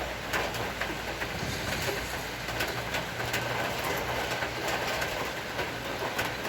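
Heavy tropical rain shower falling: a steady hiss with many sharp drip ticks scattered through it.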